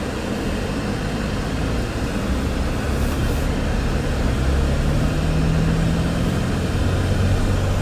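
Inside the cab of a Toyota Tacoma pickup: engine and road noise as the truck pulls away from a stop, the engine note rising and getting a little louder over a few seconds, over the steady rush of the A/C fan on max.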